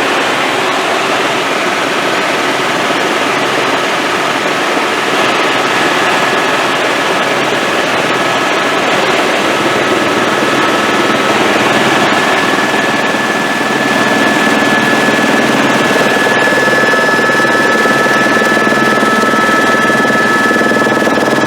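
Helicopter heard from inside the cabin in flight: a loud, steady engine and rotor noise with a high steady whine, growing a little louder about two-thirds of the way through.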